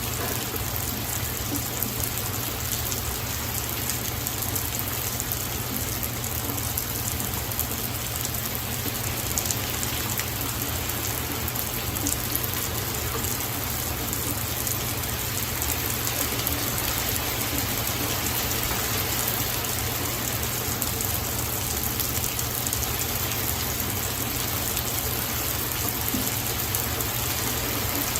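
Steady rain shower falling and pattering on surfaces, with many fine drops crackling.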